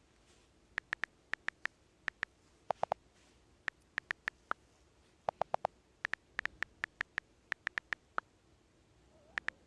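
Keyboard typing: a run of irregular, sharp, clicky keystrokes, now in quick clusters and now with short gaps, with a few lower-pitched clicks coming in quick pairs or triples.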